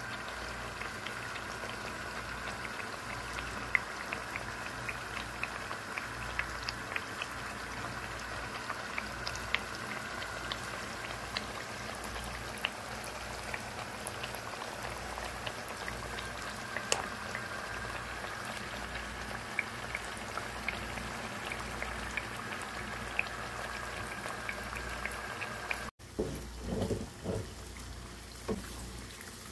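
Sweet potato slices frying in hot oil in a pot: a steady sizzle with many small, sharp pops. Near the end a wooden spatula stirs and turns the slices, giving a few louder, irregular knocks and scrapes against the pot.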